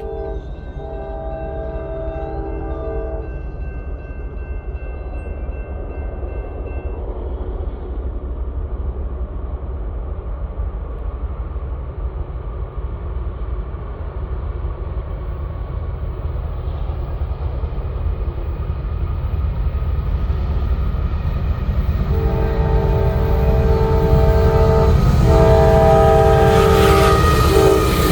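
Norfolk Southern AC44C6M and ES44AC diesel locomotives approaching at the head of a freight train. The multi-note horn sounds a long blast that ends about three seconds in. The engines' low rumble then grows steadily louder, and the horn sounds two more long blasts in the last six seconds as the locomotives come close.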